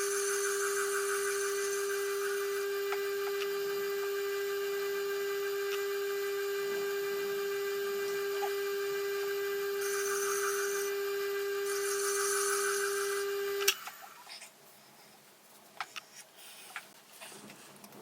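Tormek T8 sharpener motor running with a steady hum while a knife edge scrapes against the turning wheel in two stretches, near the start and again about 10 to 13 seconds in. The machine is switched off about 14 seconds in with a sharp click, after which only a few faint clicks of handling remain.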